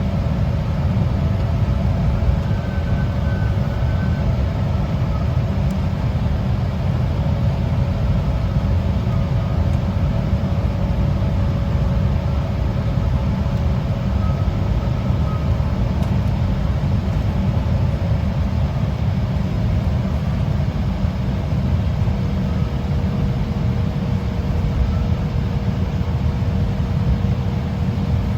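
Embraer 175 cabin noise while taxiing after landing: a steady low rumble from the twin CF34 turbofan engines at low power and the cabin air, with a steady whine that drops slightly in pitch about two-thirds of the way through.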